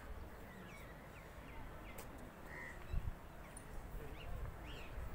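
Birds chirping and calling now and then, short high chirps over a low rumble, with a single low thump about three seconds in.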